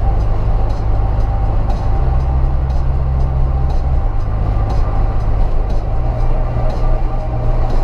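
A vehicle running close by: a loud, steady low rumble with a steady humming tone above it.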